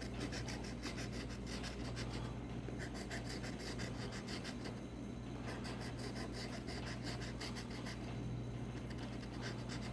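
Scratch-off lottery ticket being scratched: many quick, light scrapes in rapid succession, over a steady low hum.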